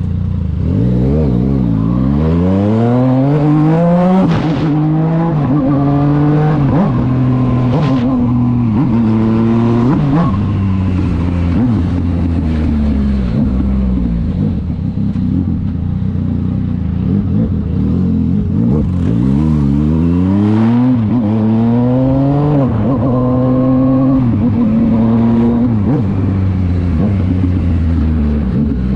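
Yamaha motorcycle engine accelerating through the gears. The pitch climbs and drops sharply at each upshift, three times in the first ten seconds. It then holds, falls away as the rider eases off, and climbs through the gears again in the second half.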